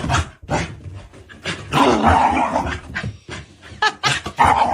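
A dog making sounds in short, irregular bursts, with a longer one about two seconds in.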